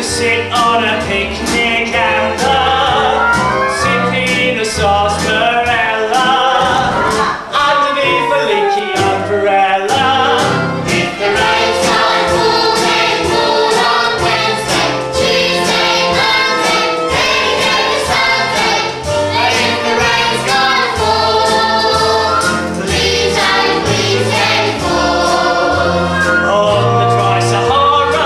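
Chorus of voices singing an upbeat show tune over instrumental accompaniment with a regular beat.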